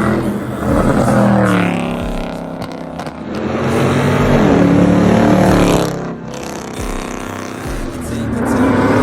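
Modified V8 muscle-car exhaust revving, in repeated surges that rise in pitch and drop back.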